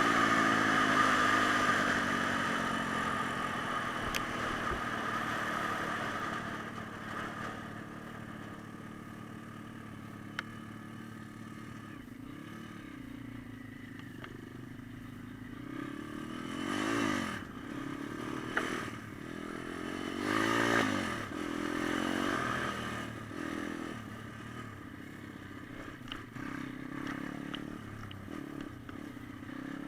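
Pit bike engines off-road. At first a bike rides away, its engine note falling and fading. About halfway through, bikes rev and pass twice in quick succession, the engine pitch rising and falling each time.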